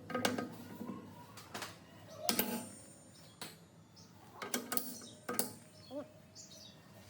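Metal parts of a machine being handled and fitted, giving an irregular series of sharp clinks and knocks with brief ringing.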